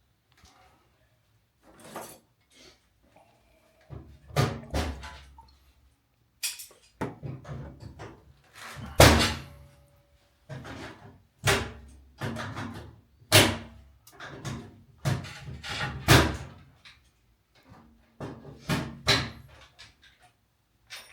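A series of irregular knocks and thuds with some scraping in between, like hands-on handling work; the loudest knock comes a little after nine seconds in.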